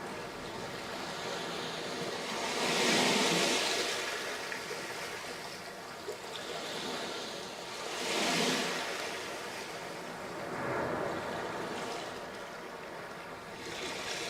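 Sea waves breaking and washing up a sandy beach. There are surges about three seconds in, at eight and a half seconds, at eleven seconds and again near the end, with a steady wash between them.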